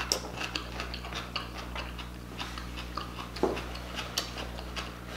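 Close-miked chewing of a crisp mini cucumber dipped in seafood-boil sauce: a run of small wet crunching clicks, a few a second, one a little louder about three and a half seconds in.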